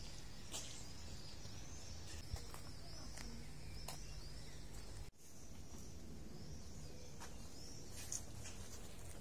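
Small birds chirping: a run of short, high, arched chirps about twice a second over a low background rumble, with a few sharp clicks. The sound drops out for a moment about five seconds in.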